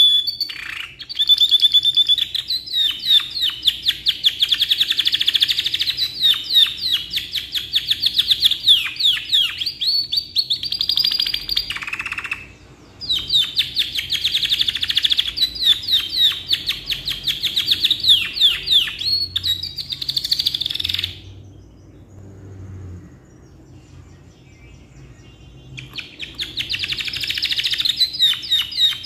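Canary in full song, delivering long rolling phrases of fast repeated notes and trills. It breaks briefly about twelve seconds in, falls quiet for several seconds after about twenty-one seconds, then starts another phrase near the end.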